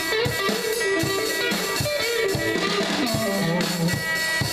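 A rock band playing a jam with electric guitars, bass and drum kit, the guitar and bass lines moving through changing notes over steady drum hits.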